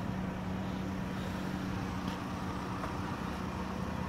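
A vehicle engine idling with a steady low hum, over even outdoor background noise.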